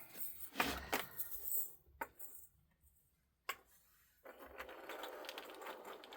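Small plastic containers of diamond painting drills clicking and knocking as they are handled, a few separate clicks, then a steady fine rattle of the tiny resin drills inside for about two seconds near the end.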